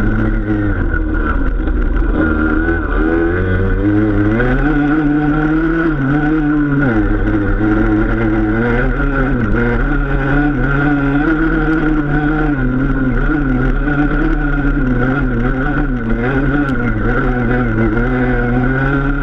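Enduro motorcycle engine running continuously, its pitch rising and falling as the throttle is opened and closed.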